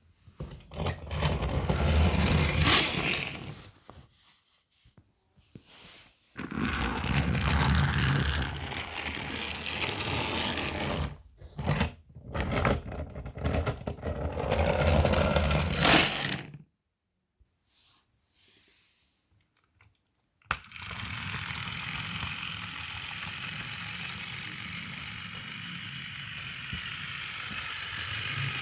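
Toy Thomas trains running on plastic track, a clattering, scraping rattle of wheels and gears. It comes in stops and starts, going almost silent twice, then runs steadily through the last third.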